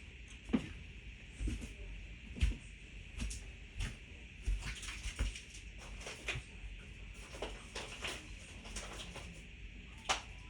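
Irregular small clicks and crackles, a few a second, from someone eating chocolates close to the microphone.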